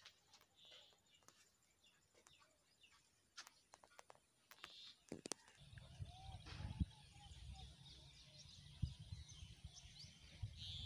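Faint birds chirping outdoors, with scattered clicks in the first half and a low rumble coming in about halfway.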